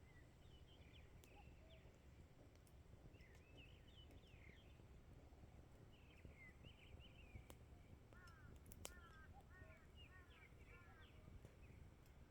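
Birds chirping and twittering outdoors, with a steady low background rumble. From about eight seconds in, a bird gives a run of short, arching calls, about two a second.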